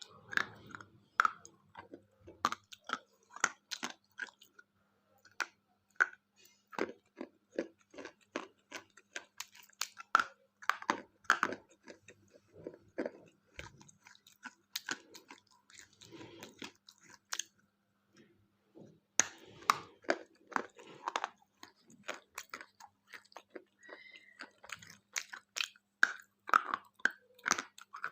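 Close-miked chewing of a chocolate-coated KitKat wafer bar: repeated crisp crunches and crackles at an uneven pace, with a short pause about two-thirds of the way through.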